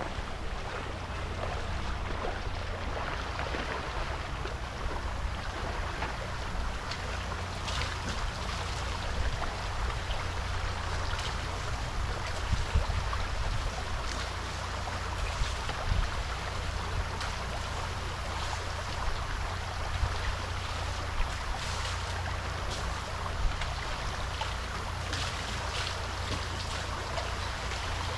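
Steady rushing of water with a deep low rumble underneath and a few sharp knocks or splashes scattered through.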